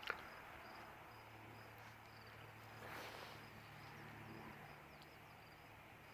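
Faint early-morning outdoor ambience: insects chirping in a steady run of short high-pitched chirps, over a low steady hum, with a small click at the very start.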